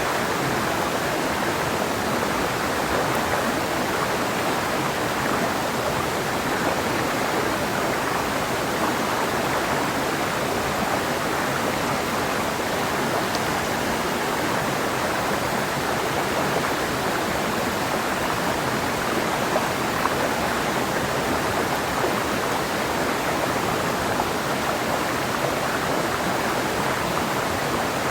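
Mountain river water flowing and splashing over rocks: a steady, even rush.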